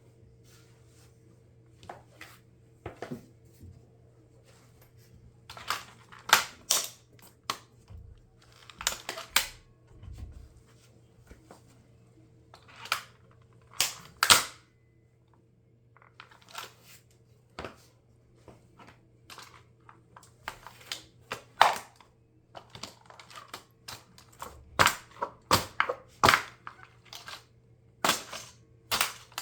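Hard plastic of a toy RC car cracking and snapping under high heels: irregular sharp cracks and clicks, some in quick clusters, with the loudest snaps coming in bunches several seconds apart.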